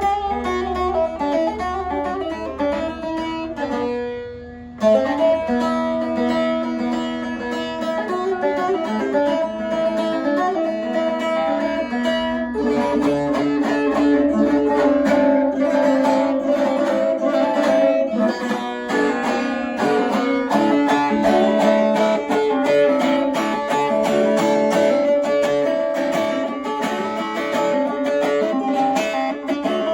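Double-necked bağlama (saz) played solo: a plucked melody on steel strings. It fades briefly about four seconds in, comes back sharply, and grows fuller and denser from about twelve seconds on.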